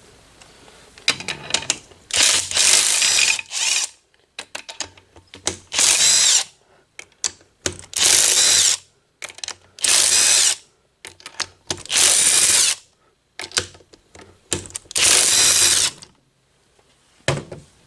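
Power tool running a 14 mm socket on the cylinder head bolts of a 2016 Polaris Ranger 900 XP engine to loosen them. It runs in short bursts of about a second each, several times, with clicks and knocks of the socket between them.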